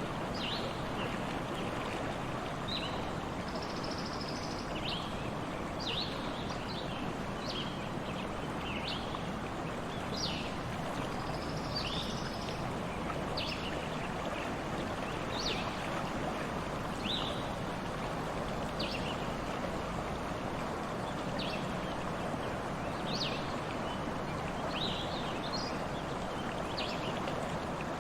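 A stream running steadily, with birds calling throughout in short, high, quickly falling chirps, and a few brief high trills.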